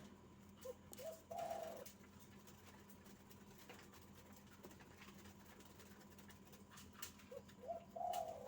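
Barbary dove (puter) cooing twice, about seven seconds apart, each call a couple of short notes leading into a longer held coo.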